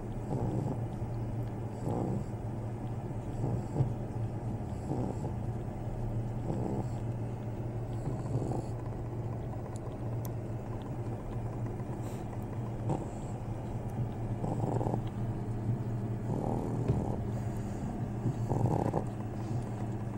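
Pug puppy's noisy breathing and snuffles, short bursts every second or two, over a steady low hum.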